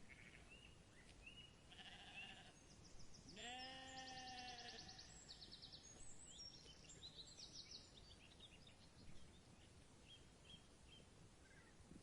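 A sheep bleats once, a single call of about a second and a half starting some three seconds in, rising at the start and then holding its pitch. Small birds chirp high and quick around it, throughout.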